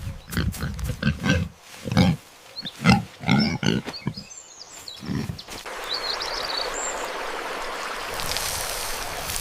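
Repeated short, low animal grunts for about five seconds, then a steady hiss takes over, with a few brief high chirps.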